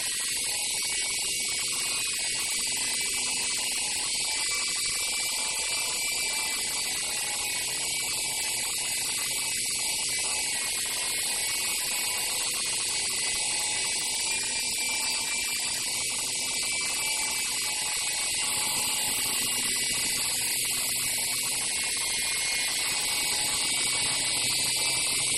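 Walkera RC helicopter hovering and flying, its motor and rotor blades making a steady high-pitched whine.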